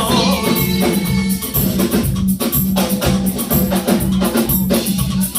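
Live gospel praise band playing between sung lines: a steady drum beat with percussion, bass and keyboard.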